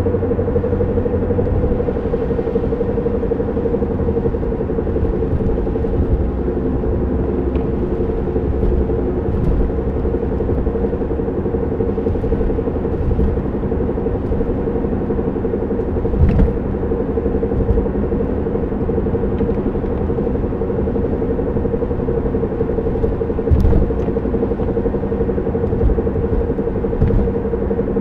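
1993 Honda Civic EX coupe on the move: a steady drone over low road rumble, with a few sharp knocks. The owner describes the noise as a knock and a scrape and thinks it is a bad bearing.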